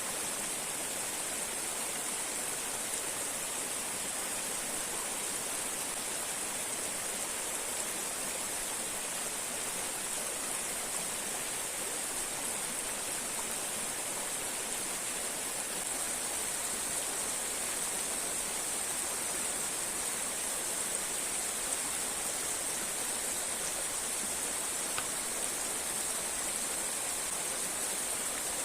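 Steady rush of a river and nearby waterfall, an even hiss of flowing water.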